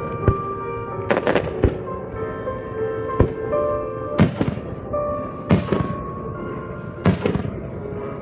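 Aerial firework shells bursting in a starmine display, sharp bangs roughly once a second with some in quick clusters, while music plays along with the show.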